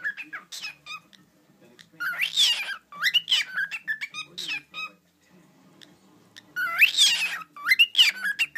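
Cockatiel chirping and whistling in two bouts of quick rising and falling whistled notes, with a pause in between.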